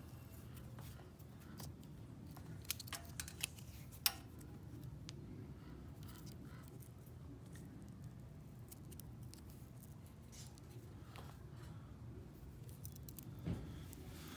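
Scattered small metallic clicks and clinks of a feeler gauge's steel blades being handled and sorted, over a steady low hum.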